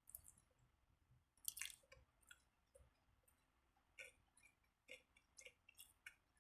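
A person chewing a sandwich close to the microphone: quiet, wet mouth clicks and crunches every second or so, the loudest about one and a half seconds in.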